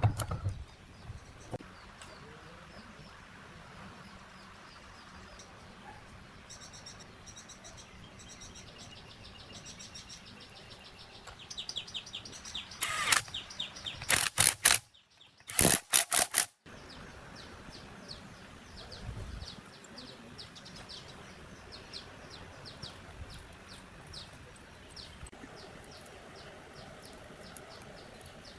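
Birds chirping in rows of quick repeated notes. About halfway through, a loud noisy sound comes in bursts for a few seconds, with a brief dropout in the middle.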